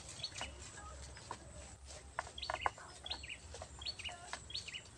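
Small birds chirping: short, high calls that dip in pitch, repeated every half second to a second, with a few faint clicks between them.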